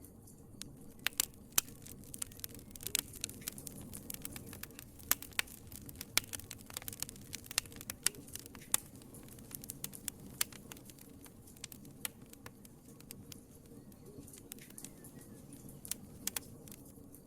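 Wood fire in a fireplace crackling, with irregular sharp pops over a steady low rumble of the flames. The pops come thick and fast for the first half, then thin out, with a couple of loud ones near the end.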